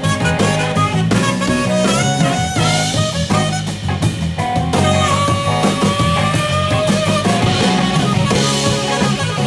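Live band playing an instrumental passage: drum kit, guitar and bass under a lead line that bends a couple of times and then holds one long note about halfway through.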